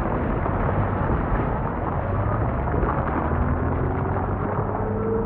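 Rock slide: a steady, dense rumble of rock and debris coming down a slope. A faint rising tone comes in near the end.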